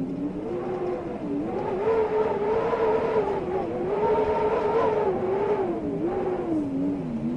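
Storm wind howling: a wavering, moaning tone that climbs about two seconds in, holds high and unsteady, then sinks near the end, over a steady rush of air.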